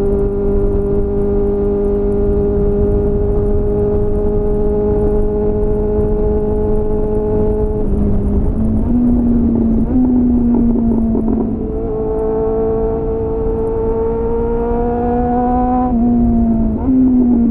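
2001 Suzuki GSF 600 Bandit's inline-four engine through a clone SC-Project CR-T exhaust with a home-made dB-killer, heard onboard while riding. The revs climb slowly for about eight seconds, then drop off the throttle with an uneven note, climb again from about twelve seconds, and fall sharply near the end.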